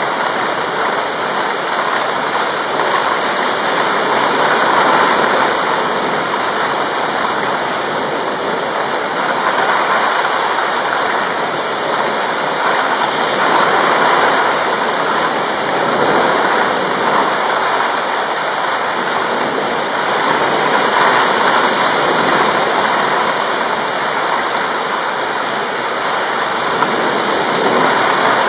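Heavy thunderstorm rain pouring down in a steady, dense hiss that swells and eases a little every few seconds, with no thunder.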